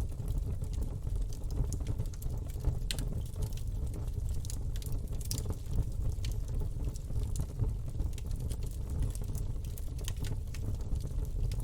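Campfire burning: irregular crackles and sharp pops over a steady low rumble of the flames.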